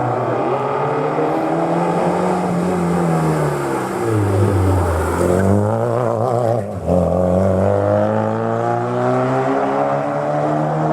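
Historic rally car engine coming off the revs and dropping in pitch as it slows into a hairpin, then accelerating out with the revs climbing, a short break for a gear change about seven seconds in, and the revs rising again.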